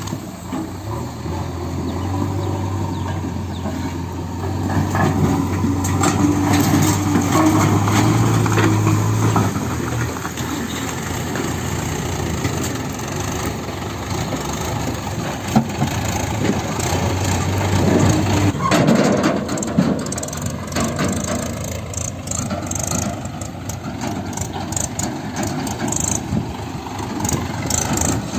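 Heavy diesel engine running, with a steady low drone for the first ten seconds or so that then drops away, coming back briefly before the end amid rattling clatter.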